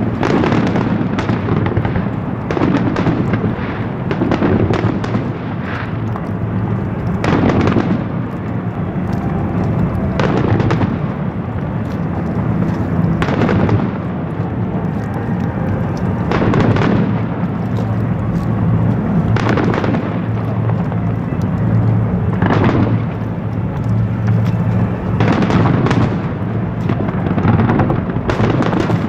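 Fireworks display: big aerial shells bursting with sharp bangs about every three seconds over a continuous rumble and crackle of further bursts.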